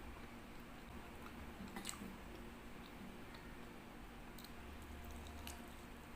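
A person chewing butter chicken with soft, wet mouth clicks scattered through, one sharper click about two seconds in, over a faint low hum.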